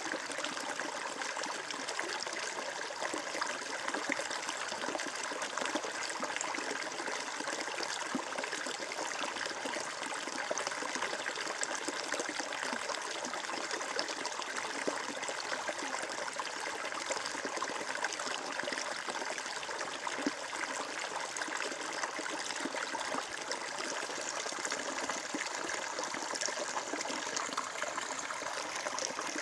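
Water flowing and trickling steadily, an even splashing rush without pause.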